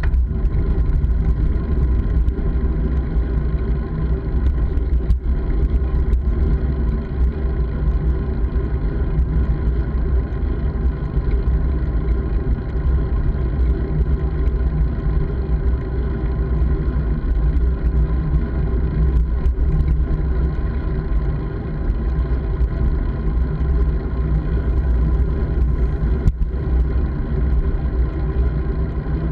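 Steady wind buffeting on the microphone of a moving bike-mounted camera, a loud low rumble with traffic or road noise mixed in and an occasional faint click.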